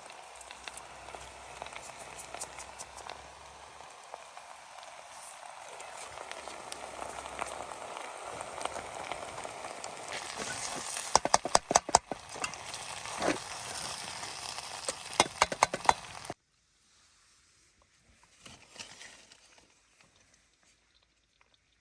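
Food sizzling in a pan over a camp fire or stove: a steady hiss that slowly grows louder, with bursts of sharp crackling pops. It cuts off abruptly after about sixteen seconds, leaving only faint scattered sounds.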